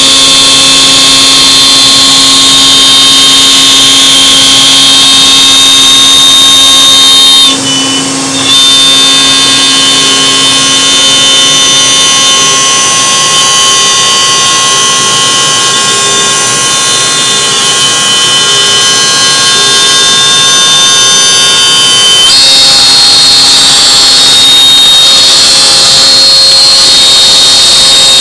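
CNC router spindle running with a steady high-pitched whine. The sound briefly drops out about eight seconds in, and the tones shift slightly about two-thirds of the way through.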